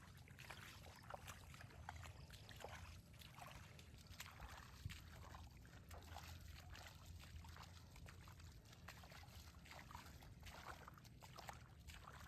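Faint trickling and dripping water with scattered light ticks, over a low rumble.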